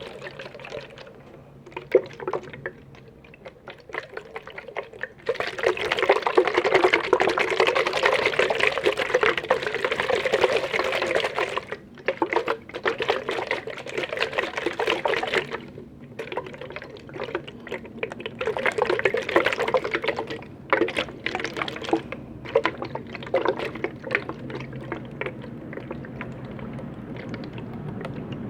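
Liquid being poured in several spells, the longest lasting about six seconds, with scattered small clicks and taps before and between the pours.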